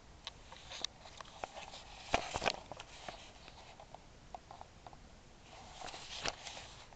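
Campfire burning, the wood crackling and popping in irregular snaps over a faint hiss, with two louder spells of crackle about two seconds in and near the end.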